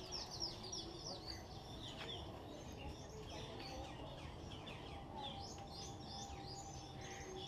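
Many small birds chirping at once in a walk-through aviary: quick, high, downward-sliding chirps overlapping from several birds, thickest near the start and again in the last few seconds, over a low background hum.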